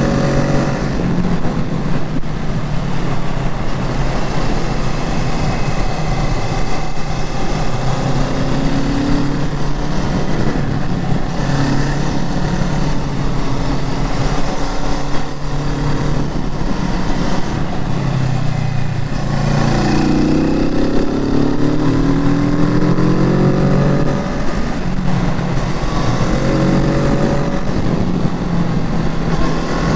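Kawasaki Z650's parallel-twin engine running steadily while riding, with the revs rising as it accelerates about twenty seconds in.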